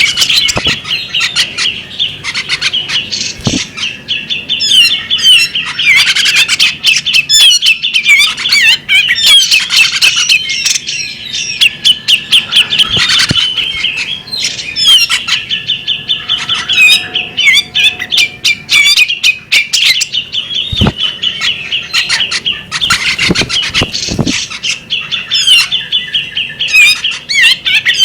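Female bearded magpie robin singing a fast, unbroken stream of short chirps and twittering trills, with a few sharp clicks here and there.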